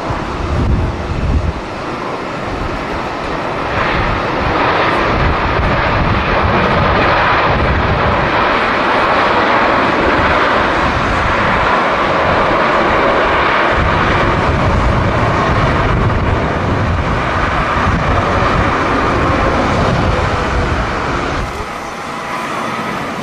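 Jet airliner engine noise that builds over the first few seconds, holds steady, and eases off near the end, with gusty wind buffeting the microphone underneath.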